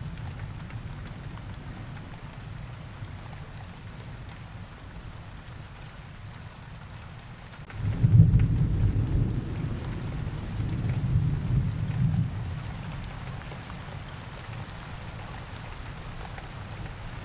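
Rain ambience: steady rain with low rolling thunder. A louder rumble breaks in suddenly about eight seconds in and rolls on for about four seconds before dying back to the rain.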